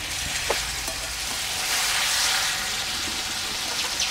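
Jackfruit pieces and spice paste sizzling in a metal wok as they are stirred and fried down with a metal spatula, the masala being cooked in with the jackfruit. A rapid run of short chirps begins near the end.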